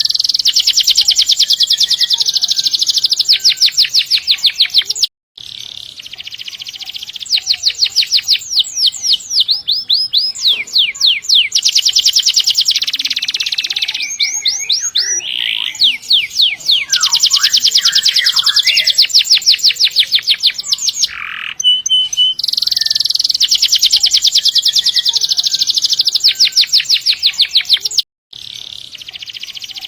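Domestic canary in full song, delivering long rolling trills: fast runs of repeated notes lasting several seconds each, with short breaks between phrases.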